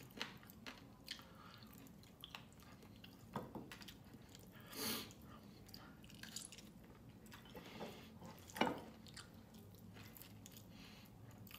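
Faint chewing and mouth sounds of someone eating saucy chicken adobo by hand: small wet smacks and clicks, with a few louder ones about three and a half, five and eight and a half seconds in.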